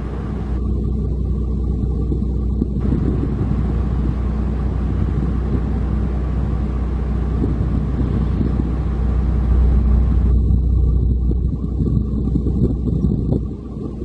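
Heavy diesel engine running with a steady low rumble, a little louder about ten seconds in and easing off near the end.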